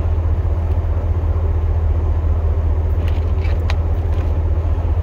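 Pickup truck engine idling, a steady low drone heard from inside the cab, with a few light clicks a little after three seconds.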